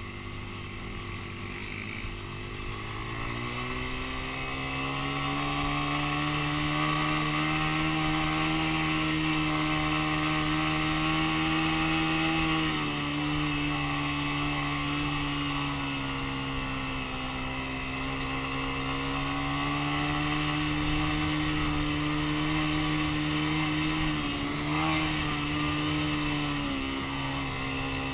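Dirt bike engine running. Its pitch climbs over the first few seconds as it revs up, then holds fairly steady, eases down a little about halfway through and drops again near the end.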